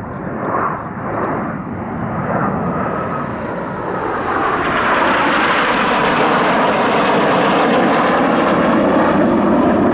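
BAE Hawk T1 jets flying past in formation: a jet rush that swells about four seconds in and stays loud, with a hollow tone sweeping down and back up as they pass.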